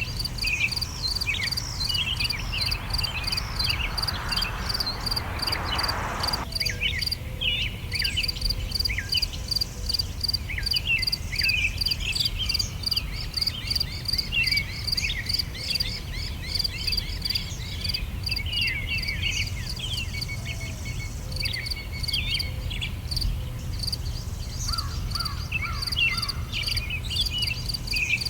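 Summer outdoor ambience: many small birds chirping and singing over a steady, fast-pulsing high insect trill. A rushing noise runs under them for the first six seconds and cuts off suddenly, and a steady low rumble lies beneath throughout.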